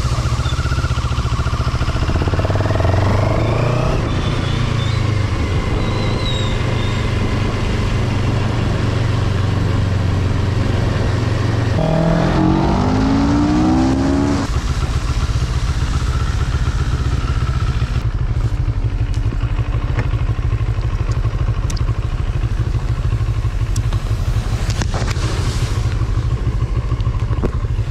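CF Moto 700 CL-X Heritage's parallel-twin engine running on a ride, with wind and road noise. About twelve seconds in it revs up with rising pitch. A couple of seconds later the sound changes abruptly to a lower, steadier running, with a few faint clicks.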